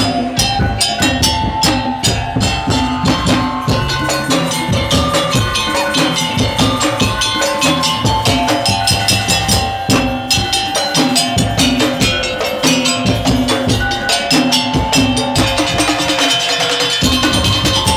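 Madurese daul (tong-tong) ensemble playing: a fast, dense beat of drums and struck percussion with a melody of held notes over it. The low drums drop out briefly near the end, then come back in.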